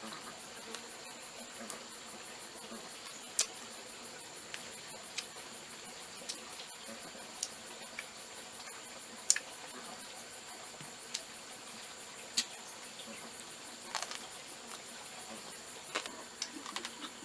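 Forest insects chirring in a steady, high, rapidly pulsing chorus, with sharp clicks every second or two.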